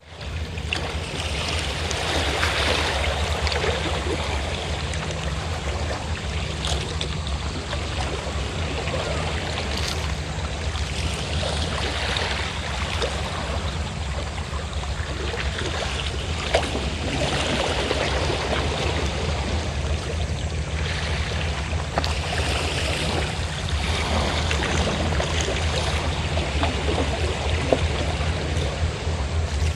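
Sea waves washing and surging, with the steady low hum of a fishing boat's engine running underneath.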